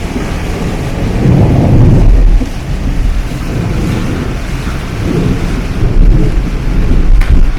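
Typhoon winds and rain buffeting the microphone in a heavy, rumbling noise. It surges about a second in and again at about five seconds. A short sharp knock comes near the end.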